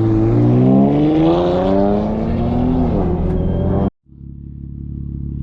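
Infiniti G37 coupe's 3.7-litre V6 through a full titanium Tomei exhaust, revving up with a steadily rising note for about three seconds, then easing off. The sound cuts out abruptly about four seconds in, and a steady low engine drone follows.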